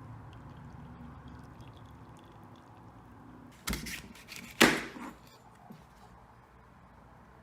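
Two short knocks about a second apart, the second louder, over a faint low hum.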